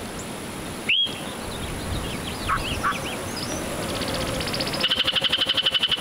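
Birds giving short scattered chirps and calls. From about five seconds in comes a loud, rapid, even trill of about twelve pulses a second.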